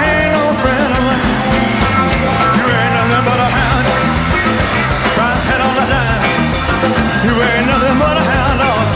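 Rock and roll band playing, loud and steady, with a voice singing over it.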